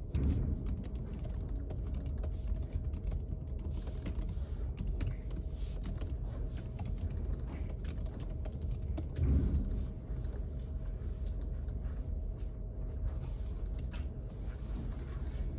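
Typing on a computer keyboard: irregular key clicks over a steady low room rumble with a faint hum, and one louder low bump about nine seconds in.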